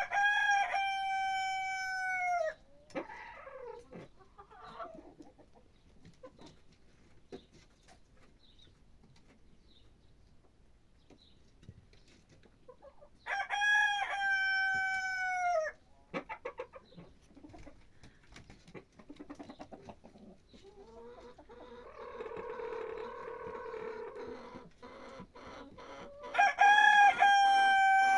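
Rooster crowing three times, about thirteen seconds apart, each crow a long held call that drops in pitch at the end, with softer scattered calls in between.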